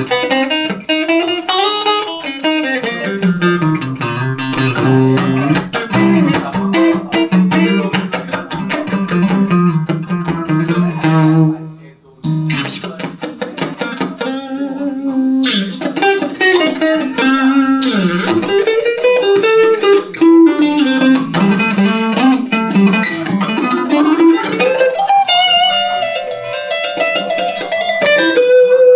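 Van Zandt Telecaster electric guitar played solo through a Roland JC-120 amp: a busy line of notes with pitches bending up and down. The playing breaks off for a moment about twelve seconds in, then picks up again.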